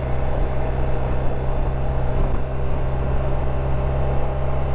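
BMW R1250 RT's boxer twin engine running steadily in second gear on a downhill, holding the bike back by engine braking.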